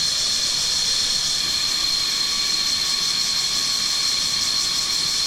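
Steady shrill chorus of tropical insects: a high hiss with one unchanging high whine running through it.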